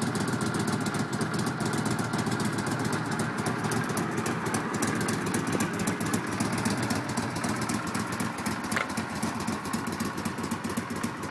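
Honda Silver Wing Interstate's V-twin engine idling steadily.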